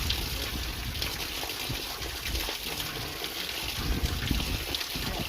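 Water from a mountain waterfall running steadily, with a low rumbling that comes and goes beneath it.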